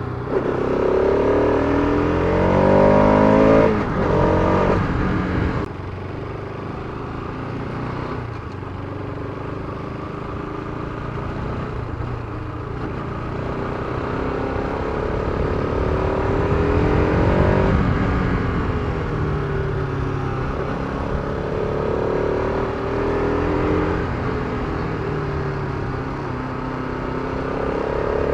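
Bajaj Pulsar RS200's single-cylinder engine on the move, its note rising under throttle and falling off abruptly about four seconds in, then rising again and falling off near six seconds. After that it settles to a lower, steadier note that swells and eases with the throttle.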